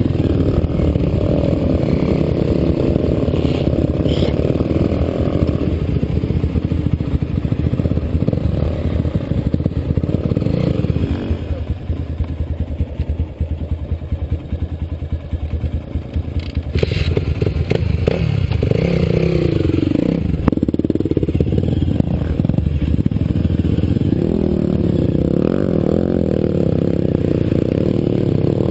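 Dirt bike engine running under way, steady and loud. About halfway through it eases off and runs quieter for several seconds, with a few knocks and rattles, then picks back up with the engine pitch rising and falling.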